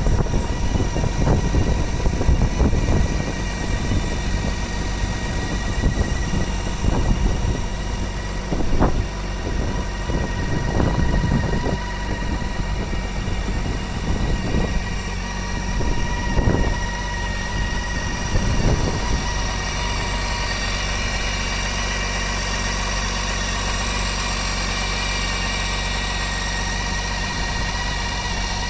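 Motorcycle engine running at idle, with several brief throttle blips during the first two-thirds, then settling into a steady idle.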